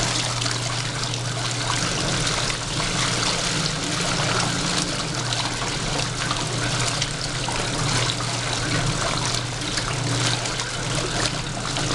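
Wash water churning and trickling in a 1973 Fridgette twin-tub washer's wash tub, stirred by its offset bottom impeller, over a steady motor hum.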